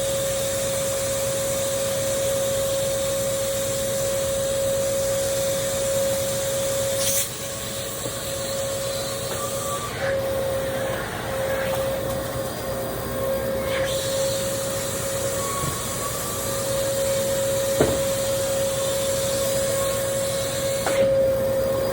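Vacuum cleaner running steadily with a constant motor whine over its hiss. The hiss changes abruptly a few times, and there is a sharp knock near the end.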